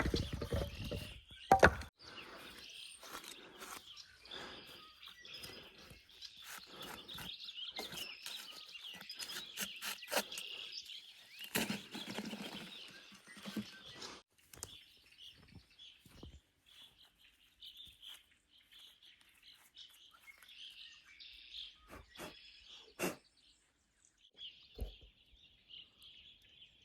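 Small songbirds chirping and twittering steadily. Right at the start there is a loud sharp knock of firewood being split, and another about a second and a half later.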